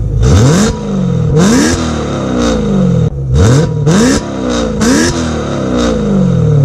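BMW E92 M3's 4.0-litre V8 free-revved in about five quick throttle blips, each rising sharply in pitch and falling back toward idle. It runs through an Armytrix valved exhaust with the valves closed, which gives a sound close to a stock M3.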